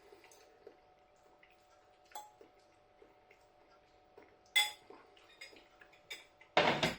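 Fork clinking against a meal container while eating, a few sharp clinks with the loudest about four and a half seconds in, and a short louder burst of noise near the end.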